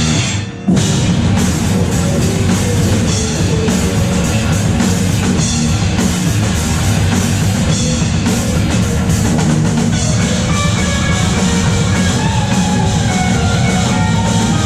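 Rock band playing live: a driving drum kit and distorted electric guitars. The sound drops for a moment about half a second in, then the full band comes crashing back in.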